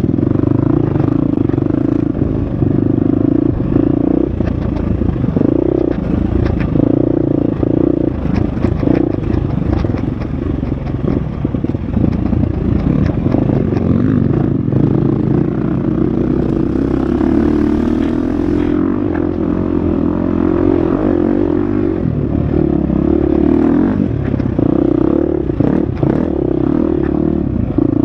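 Husqvarna FX 350 dirt bike's 350 cc four-stroke single-cylinder engine running hard on a trail, its revs rising and falling through the lap, with frequent clatter of the bike over rough ground.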